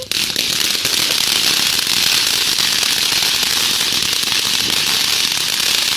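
Ground-staked firework fountain spraying sparks: a loud, steady hiss with dense crackling that starts suddenly and burns evenly.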